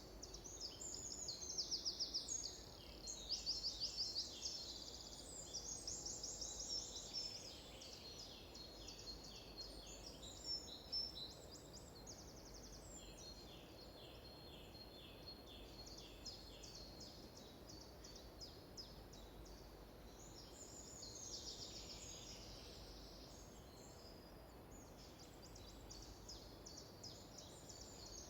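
Songbirds singing: fast trills and strings of high repeated chirps overlapping, loudest in the first few seconds and again about two-thirds of the way through, over a faint steady hiss.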